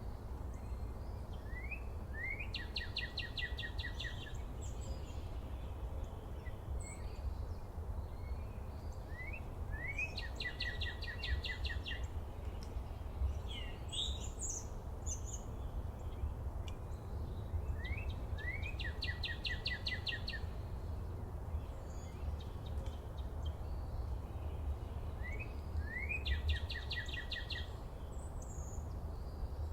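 A songbird singing the same short song four times, about eight seconds apart: two quick rising notes followed by a fast trill, with a few higher chirps from other birds between songs. A steady low rumble runs underneath.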